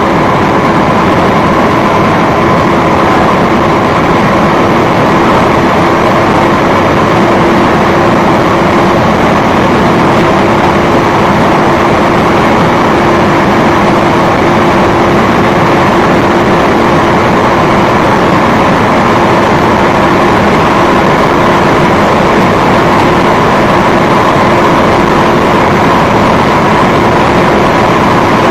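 Audi S8 plus's twin-turbo V8 car running at a steady speed: a constant drone with no rise in pitch, over an even rushing noise.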